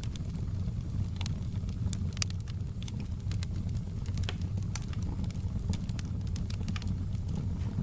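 Wood fire crackling: scattered sharp pops and snaps at irregular intervals over a steady low rumble.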